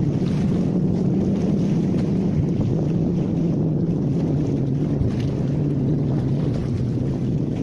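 A steady low engine-like hum that sinks slightly in pitch, with wind rushing over the microphone.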